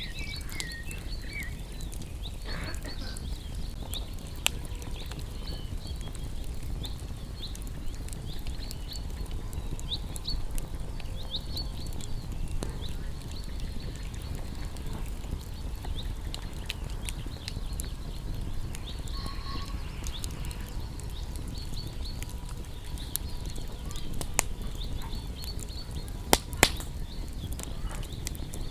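Wood fire burning with a steady low rumble and scattered sharp crackling pops, the loudest two close together near the end. Small songbirds chirp throughout in short, high notes.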